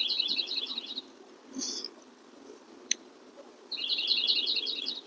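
A songbird singing: a fast trill of high, evenly repeated chirps that ends about a second in, and a second trill of about a second and a half near the end, over a steady low background hum.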